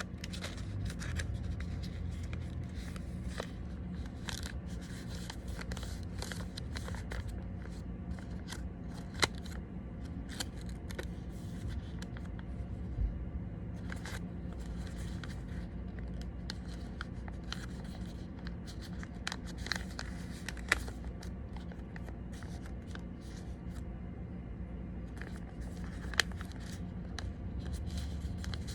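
A sheet of origami paper being folded and creased by hand: scattered soft crinkles and scrapes with a few sharper clicks, over a steady low hum.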